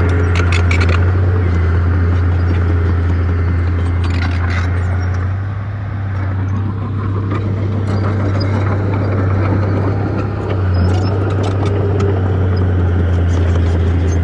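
Crawler bulldozer's diesel engine running steadily under load, with scattered metallic clanks; the engine eases off briefly twice, about six and ten seconds in.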